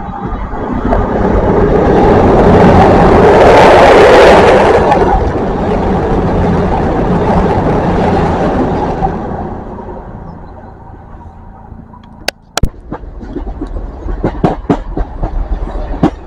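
A CrossCountry Voyager diesel multiple unit passes along the platform road at speed, its running noise and wheel roar building to loudest about four seconds in and dying away by about ten seconds. Near the end come two sharp clicks, then a quick run of wheel clacks as another train approaches on the rails.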